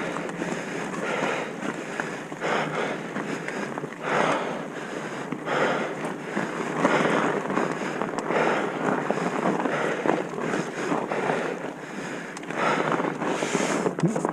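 Rushing, buffeting noise of wind on the microphone, swelling and fading every second or so.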